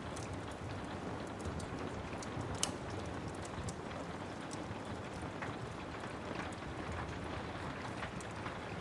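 Steady rain hiss with a wood fire in a fireplace crackling over it: scattered sharp pops and snaps at irregular intervals, one louder pop about two and a half seconds in.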